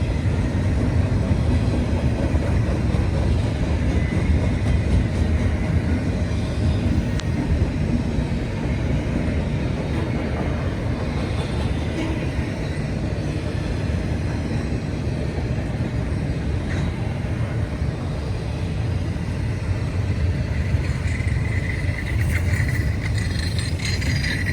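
CSX intermodal freight train rolling past: a steady rumble of steel wheels on rail. A higher squeal comes in near the end.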